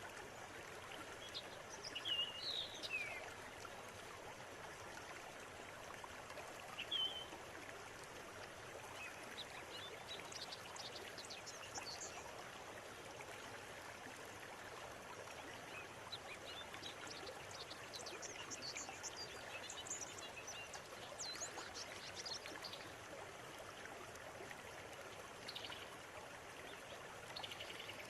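River water running with a steady rush, with birds calling over it: a few falling whistled notes about two seconds in, a short call around seven seconds, then runs of quick high chirps.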